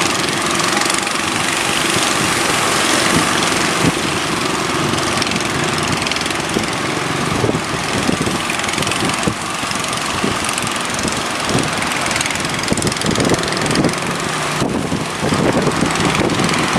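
Boat engine running steadily under a loud, continuous rush of wind and surf, with crackling from about halfway through.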